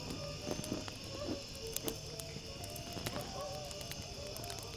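Crickets chirping steadily in the night, with scattered faint clicks.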